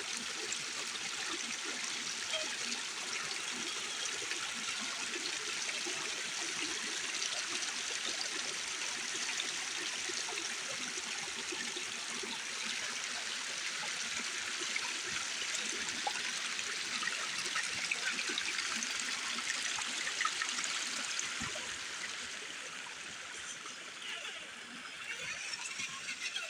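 Creek water trickling and running steadily, easing off a little near the end.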